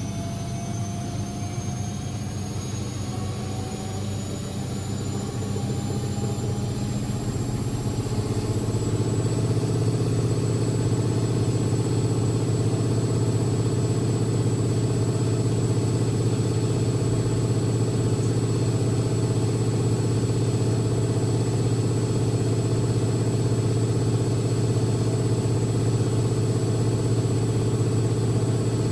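Constructa Energy 1000s front-loading washing machine spinning up: a whine rises in pitch and the drum gets louder over the first eight or nine seconds, then it runs steadily at top spin speed.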